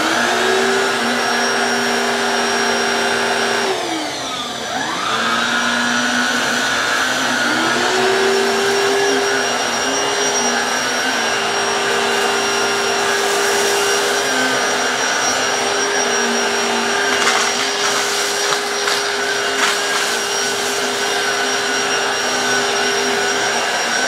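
Black+Decker PowerSeries 16V cordless stick vacuum running with its motorized brush roll on a rug; its motor winds down about four seconds in and spins back up a few seconds later. Later, scattered crackling as oats, cream of wheat and cracker bits are sucked in.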